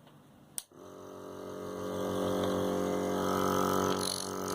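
Dr Trust compressor nebulizer switched on: a click about half a second in, then its compressor motor starts and runs with a steady hum that builds up over the first couple of seconds and then holds.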